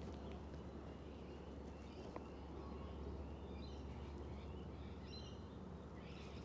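Faint birdsong: a run of short high chirps and twitters from about two and a half seconds in, over a steady low outdoor rumble.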